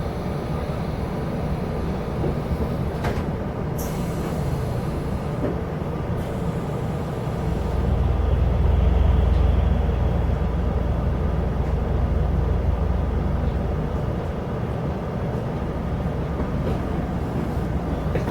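Running noise inside a moving Chu-Kuang Express passenger carriage: a steady rumble of wheels on rail, with a couple of short clicks early on. The low rumble swells and grows louder for several seconds in the middle, then eases back.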